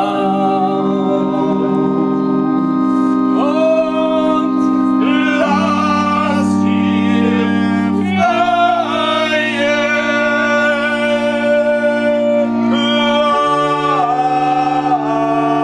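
Slow, meditative music: an electric keyboard holds organ-like sustained chords that change every few seconds, under a wordless voice singing a slow, wavering melody.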